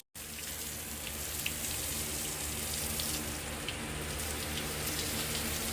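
Water spraying in a steady hiss over a horse's coat during a cooling bath, with a steady low hum underneath.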